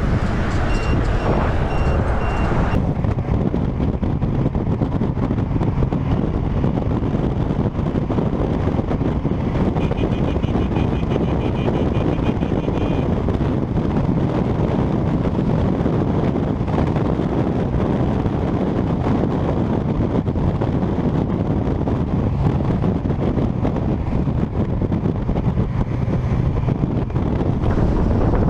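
Steady rush of wind and motor noise from a motorcycle riding on the road, with wind buffeting the rider-mounted camera's microphone. Short high steady tones sound near the start and again about ten seconds in.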